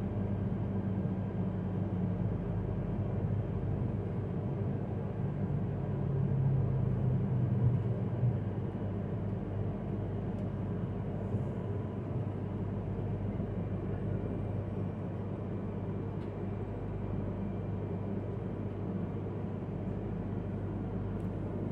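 Steady low rumble of a Yamagata Shinkansen train running, heard from inside the passenger car, swelling slightly louder for a couple of seconds about six seconds in.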